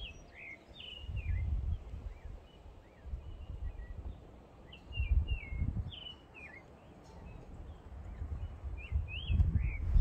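Wild birds singing in the early dawn: short, quick chirping phrases, one after another, scattered through the whole stretch. Low rumbling on the microphone swells up about three times and is louder than the birds.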